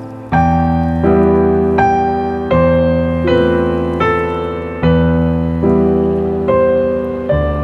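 Background music: slow solo piano, single notes and chords struck about once a second, each ringing out and fading.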